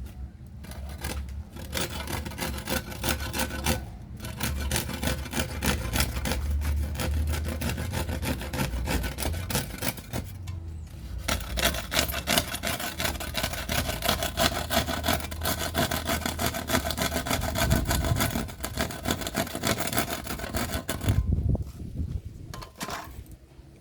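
Rapid, continuous rasping strokes of hand work on a hard material. They pause briefly about ten seconds in and stop shortly before the end.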